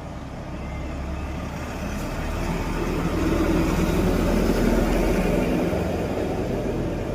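A motor vehicle's engine running, growing louder about three seconds in and easing off again near the end.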